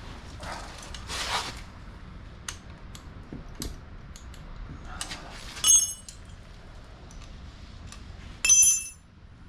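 Metal hand tools being handled, with scattered clicks, a brief scraping rustle, and two bright ringing metal clinks, one a little before six seconds in and one near the end.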